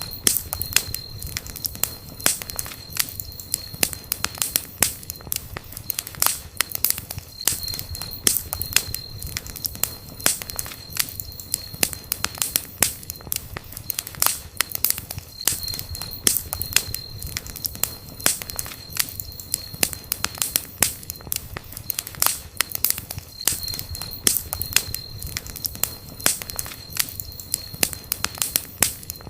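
Campfire crackling: burning wood popping in quick irregular snaps over a low steady rumble of flame. A thin high whistle comes in and fades out several times, about every eight seconds.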